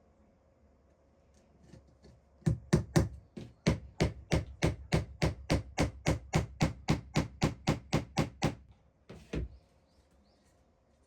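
A hammer striking wood in a quick, even series of about two dozen blows, roughly four a second, then one last blow after a short pause.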